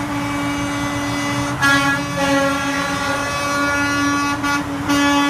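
Truck air horn blaring in one long held blast, louder and fuller from about a second and a half in, with two short breaks near the end, over the low rumble of truck engines running.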